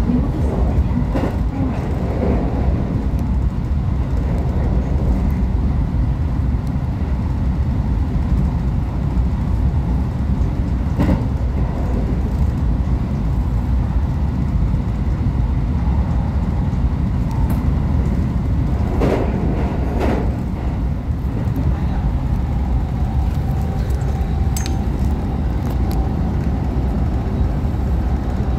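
Electric train running, heard from inside the car: a steady low rumble with a few brief clacks, and a faint steady whine in the last few seconds.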